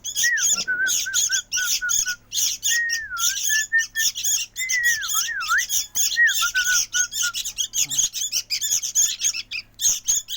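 Sooty-headed bulbul (kutilang) chicks begging: a rapid, continuous run of harsh, high squawks. A clear whistled note repeats and slides up and down beneath them for the first seven seconds or so.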